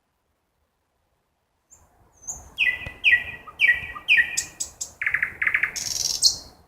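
Nightingale song: after a couple of seconds of silence, a phrase of repeated falling whistled notes, about two a second, then a fast rattling trill and a high buzzy note near the end.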